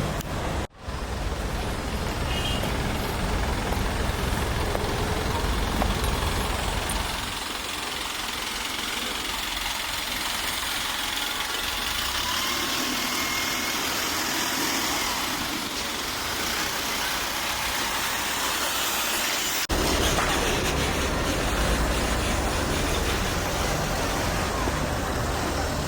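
Steady outdoor noise with a low rumble, broken by a brief dropout about a second in; the low rumble thins for a while and returns abruptly near the end.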